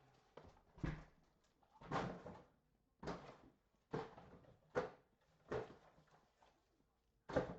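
Things being handled and set down on a tabletop: a series of short, soft knocks and rustles, about one a second.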